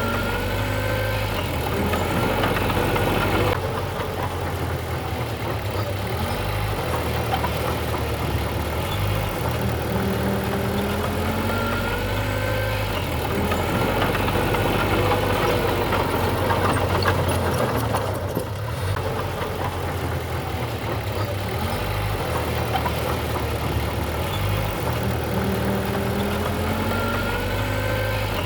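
Diesel engine of heavy earthmoving machinery running steadily. Its pitch rises and falls now and then.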